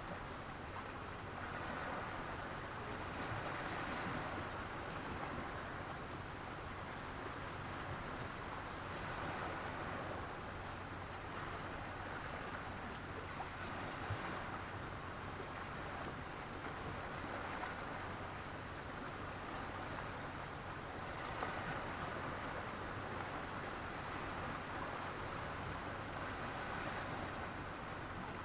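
Sea waves washing onto a beach, a steady surf rushing that swells and falls back every several seconds.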